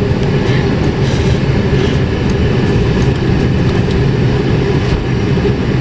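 Car running with a steady low rumble and hiss of engine and road noise, as heard from inside the cabin.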